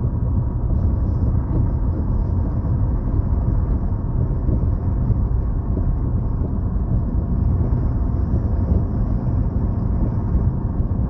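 Steady low rumble of a car on the move, with road and wind noise heard from inside the cabin.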